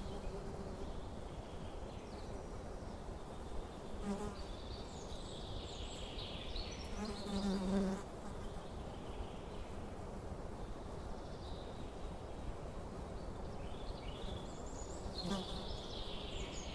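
A flying insect buzzing close by, passing three times, loudest and longest about halfway through, with small birds chirping high-pitched in the background.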